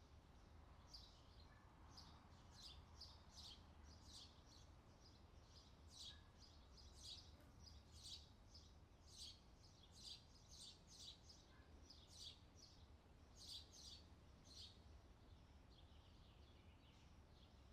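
Faint outdoor summer ambience: birds chirping in quick, irregular bursts over a low, steady hum.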